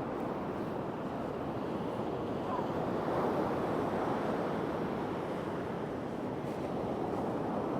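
Ocean surf washing onto a beach in a steady rush, swelling slightly about three seconds in, with wind buffeting the microphone.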